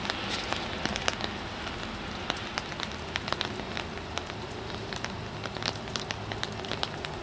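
Rain pattering: a steady hiss dotted with many small, irregular ticks.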